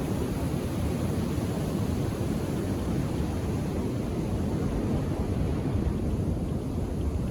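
Indian Ocean surf: a steady low rumble of waves washing on the shore, with no single breaker standing out.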